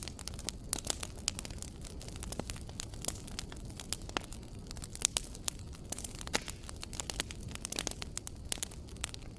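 Wood fire crackling in a fireplace: irregular sharp pops and snaps, the loudest about five seconds in, over a steady low rumble of the burning.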